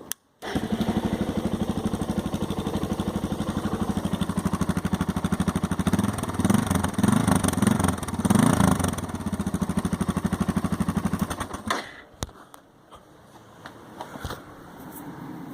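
Suzuki DR single-cylinder motorcycle engine running through a Leo Vince slip-on exhaust with the baffle fitted: a steady idle beat with a few throttle blips in the middle. The engine is shut off about twelve seconds in.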